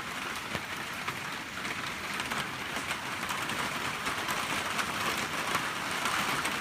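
Steady rain falling and pattering on surfaces, a dense even hiss with many small drop ticks; the rain is coming down fairly hard.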